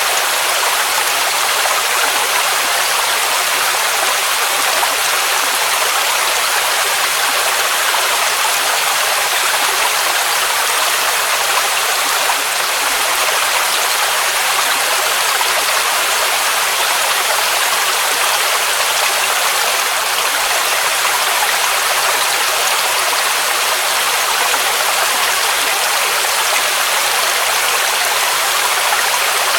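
Waterfall rushing: a steady, even hiss of falling water, with most of its energy in the upper range and little low rumble.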